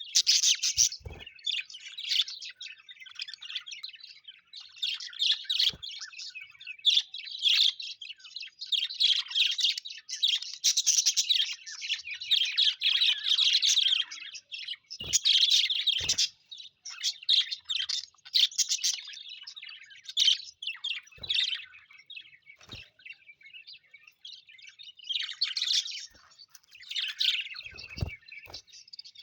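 Small pet parrots chattering and chirping in a fast, continuous warble, with a few brief lulls and the odd faint knock.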